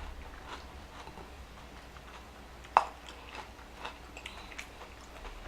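Close-miked chewing of a mouthful of Whopper burger, with soft wet mouth clicks throughout and one sharper click a little under three seconds in.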